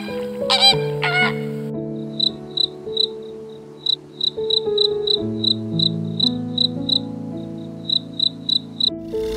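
Crickets chirping in a steady train of short, high chirps, about three a second, over soft piano music. In the first second or so a few flamingo calls are heard before the chirping starts.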